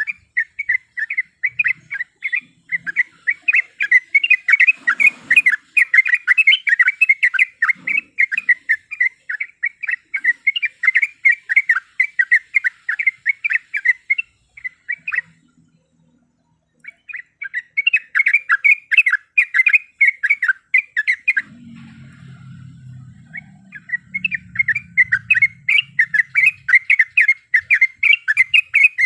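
Yellow-vented bulbul (trucukan) calling in a long, rapid chattering roll of sharp notes, several a second. The roll breaks off twice: briefly about halfway through, and again a few seconds later.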